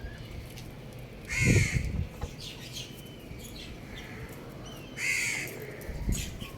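Two short, harsh bird calls about three and a half seconds apart, with faint small bird chirps between them.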